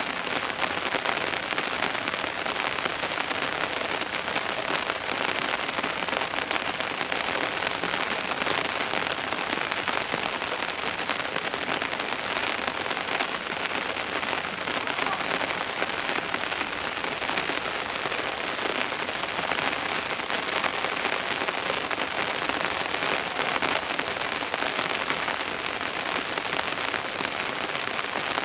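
Steady rain falling, with a dense, even patter of drops on surfaces.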